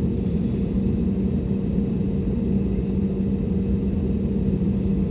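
Airbus A320neo cabin noise: a steady low rumble with a constant hum underneath.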